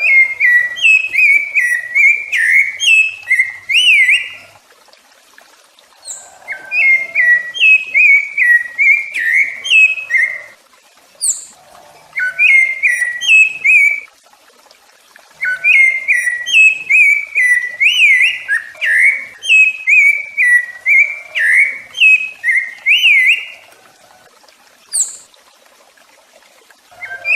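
Rufous-bellied thrush (sabiá-laranjeira) singing: bouts of clear whistled phrases that glide up and down, separated by pauses of a second or two. Two lone high sharp notes fall in the gaps.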